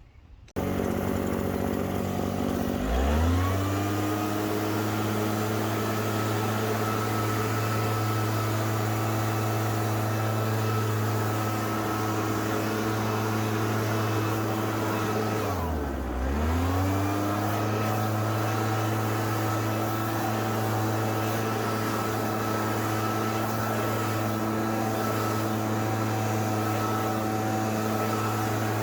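Gas string trimmer (weed whacker) engine running: it revs up from low speed about three seconds in and holds a steady high pitch at full throttle. Around the middle it drops briefly toward idle, then revs straight back up to the same steady pitch.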